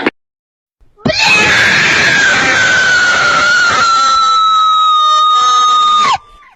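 A long, loud scream sound effect, one held high note that sinks slowly in pitch for about five seconds and then cuts off abruptly.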